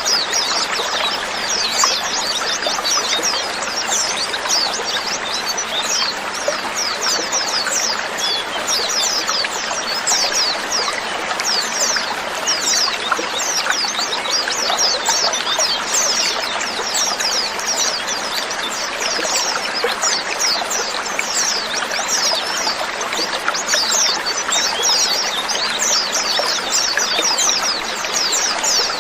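A flock of white-eyes (pleci) chattering together: many overlapping short, high, falling chirps, dense and unbroken.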